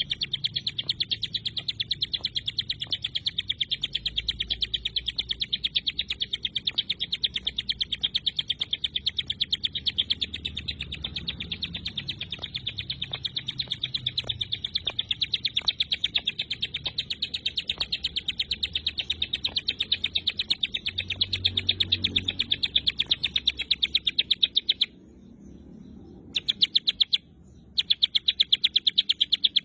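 Ciblek gunung (hill prinia) giving a dense, rapid-fire string of high chirps, the fast repeated call known as "tembakan rapat". The chirps run in an even rapid stream, break off for about a second and a half near the end, resume, and pause again briefly.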